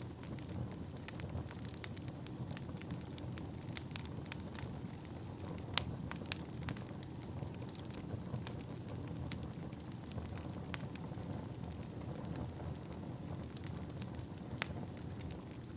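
Wood fire burning in a fireplace: a steady low rumble of flames with irregular sharp crackles and pops from the burning logs, the loudest pop about six seconds in.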